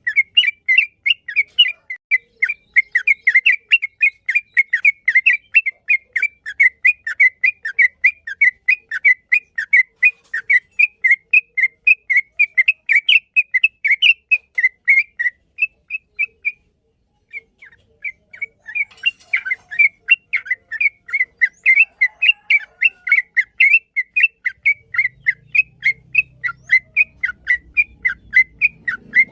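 Yellow-vented bulbul (trucukan) singing a long run of rapid short whistled notes, about five a second, with one brief pause a little past halfway.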